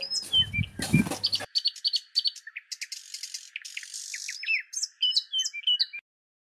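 Small birds chirping and twittering in many short, high calls that cut off abruptly near the end. A brief knock sounds about a second in.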